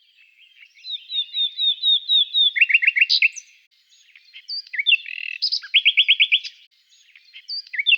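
A bird singing two phrases, each a quick run of repeated chirping notes that ends in a lower, faster trill, with a short snatch of song near the end.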